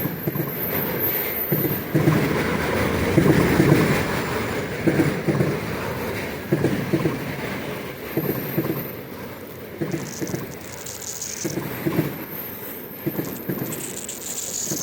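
Container wagons of a freight train rolling past, their wheels knocking over rail joints in an uneven clatter over a steady rumble, a little quieter in the second half. Two brief high falling squeals, one about two-thirds through and one near the end.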